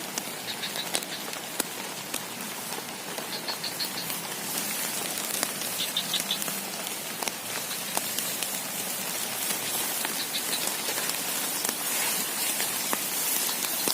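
Heavy rain falling steadily, with many individual drops ticking sharply close by. A few brief high trills of four or five quick notes come and go every few seconds.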